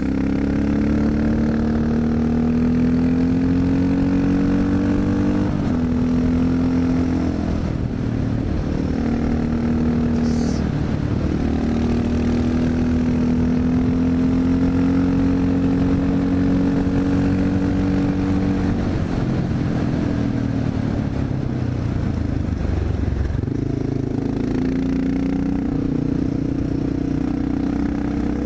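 Honda XR650L's single-cylinder four-stroke engine running hard on a ride, its pitch climbing and easing off over and over as the rider accelerates, shifts and slows into curves.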